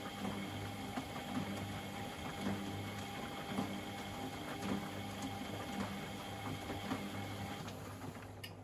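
Top-loading washing machine running, its motor humming with a steady whine while the drum turns and small clicks and knocks sound irregularly. Near the end the motor whine stops, followed by a sharp click.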